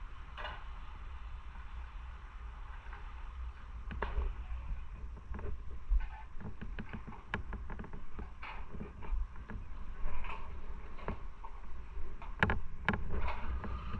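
Wind buffeting on the microphone of a moving motorcycle, a steady low rumble, with scattered sharp knocks and clicks from about five seconds in.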